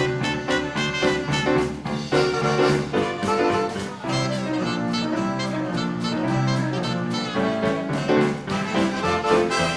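Big band dance orchestra playing a 1930s-style jazz number live, with brass and saxophones over a steady beat.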